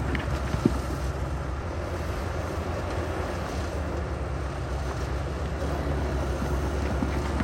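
Heavy diesel earthmoving machinery running steadily with a deep rumble, and a single sharp knock about half a second in.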